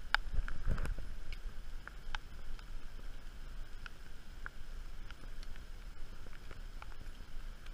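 Rain falling in scattered light ticks, with a few low thuds of digging in wet dirt in the first second.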